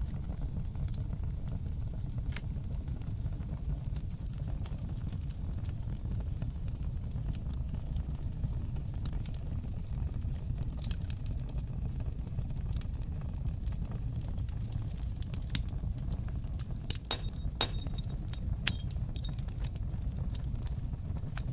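Wood fire crackling in a fireplace: a steady low rumble of the flames under scattered sharp pops, thicker near the end, with one louder pop.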